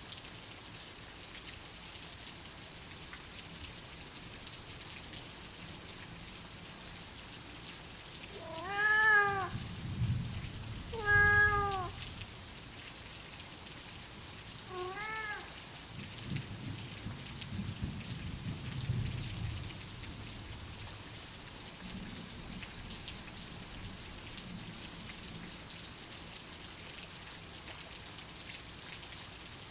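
Steady rain, with a cat meowing three times, about nine, eleven and fifteen seconds in, each meow rising and falling in pitch. Low rumbles of thunder come in around the meows and up to about twenty seconds in.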